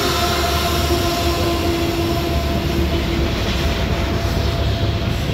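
Loaded CSX coal train rolling over a stone bridge: a steady low rumble of hopper cars and wheels, with a steady pitched whine as a CSX diesel locomotive in the train goes by, fading about three seconds in.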